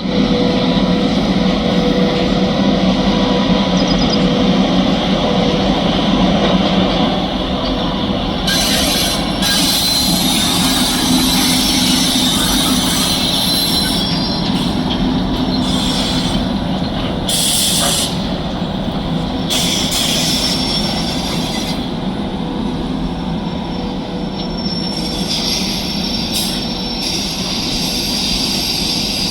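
Indian Railways freight train of open wagons, hauled by a WAG-9B electric locomotive, running past: a steady loud rumble of wheels on rail under a faint steady hum. From about eight seconds in there are repeated bursts of high-pitched wheel squeal.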